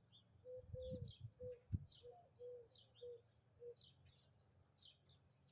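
Faint birds chirping, short falling calls repeating about twice a second, with a lower short note repeating beneath them for the first few seconds. A few soft knocks come about a second in, ending in one sharp knock, the loudest sound, just under two seconds in.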